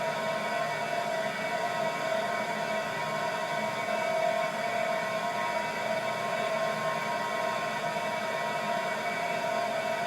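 River sound heard from inside a pot: a steady, unbroken rush of water with several steady ringing tones held over it, the strongest a mid-pitched one.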